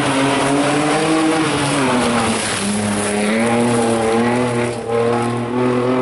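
Rally car engine running hard at high revs, its pitch dropping about two and a half seconds in and then holding steady.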